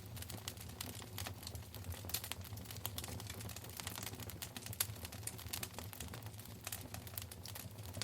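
Wood fire burning in a fireplace, crackling with many irregular sharp snaps and pops over a steady low rumble.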